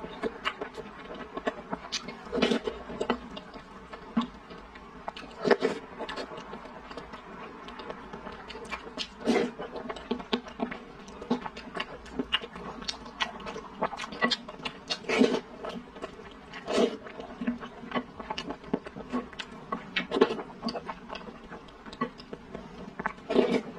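Close-up wet chewing and mouth sounds of a person eating soft, sticky purple rice and glutinous rice balls in a milk tea soup, with many irregular small clicks and smacks of varying loudness. A faint steady hum runs underneath.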